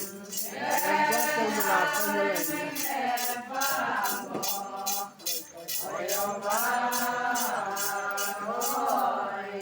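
Singing of a chant-like folk song in long held, sliding notes, over a shaker-like rattle keeping a steady beat of about three strokes a second.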